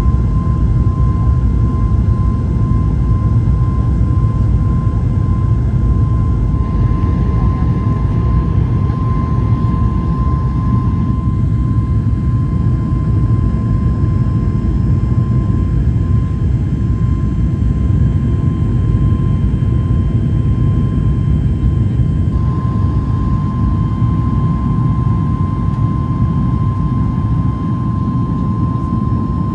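Boeing 737 MAX 8 jet engines (CFM LEAP-1B turbofans) running, a steady deep rumble with a steady high whine over it.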